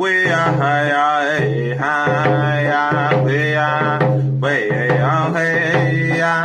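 A man singing a round dance song in vocables over a hand drum beat.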